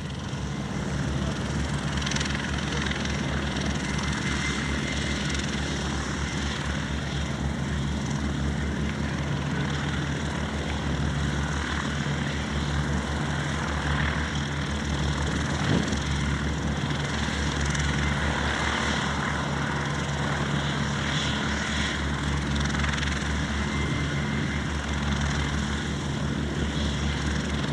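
Light aircraft piston engine and propeller running steadily, with slight swells in level.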